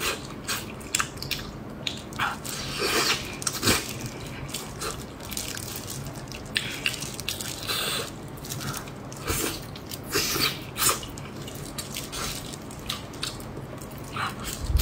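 A person biting and chewing soft braised pork-skin rolls, giving a run of short, irregular mouth clicks and smacks with a few denser stretches of chewing.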